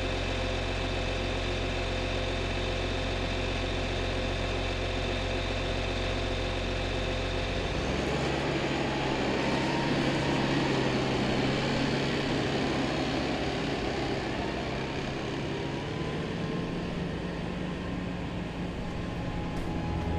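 Diesel engine of a Case IH Magnum MX215 tractor running steadily. About eight seconds in, the sound shifts to a louder, rougher note with a different pitch, as if engine speed rises.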